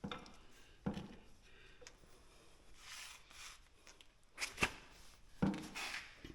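Ratchet strap being handled and hooked on, with a few short knocks and clicks of the metal hook and soft rustling of the webbing strap.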